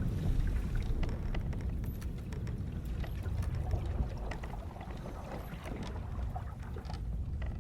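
Sailing-ship ambience: a steady low rumble of water and wind around the hull, with scattered small creaks and clicks from the ship's timbers.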